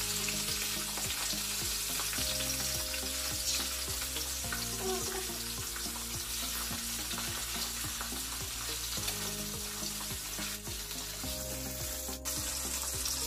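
Pomfret pieces shallow-frying in hot mustard oil in a metal kadai, a steady sizzling hiss. The spatula turning the fish clicks against the pan a couple of times near the end.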